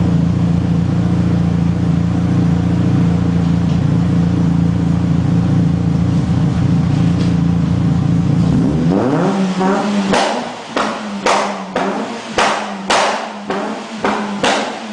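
Citroën Saxo Cup's four-cylinder engine held at a steady raised rpm, then dropping back toward idle about nine seconds in. Short, sharp blips of the throttle follow, roughly two a second.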